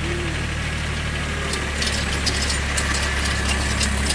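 Diesel engine of a Force Orchard mini tractor running steadily with a rotavator, with sharp clicking and rattling coming in from about halfway through.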